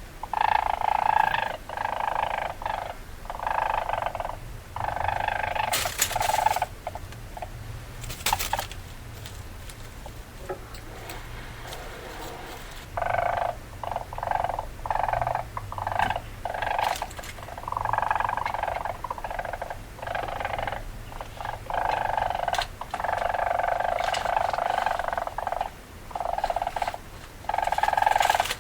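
Weasel calling in a long series of harsh bursts, each from a fraction of a second to about two seconds long, with short gaps between them. A few sharp, hissy bursts stand out about a quarter of the way in.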